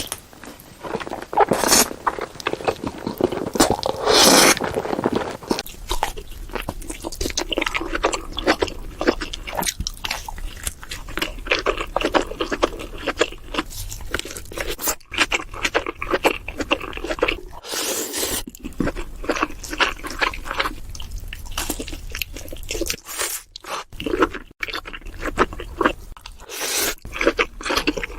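Close-miked mukbang eating sounds: continuous crunching and chewing of crisp food, with a few louder bites.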